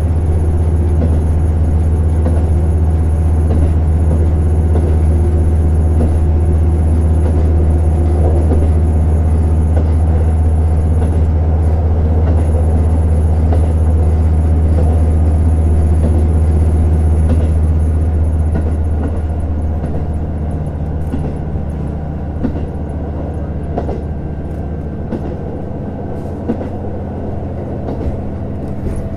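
Running sound inside a JR Hokkaido KiHa 150 diesel railcar under way. The diesel engine drones steadily under power, then about eighteen seconds in the drone falls away and the car runs on more quietly, with wheel rumble and a few sharp clicks from the rails.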